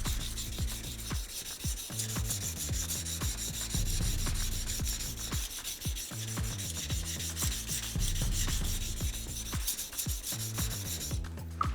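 Steel knife blade stroked back and forth on a wet whetstone: a continuous gritty scraping made of many short strokes, which stops near the end. The knife is a thin Honyaki fugu-hiki blade.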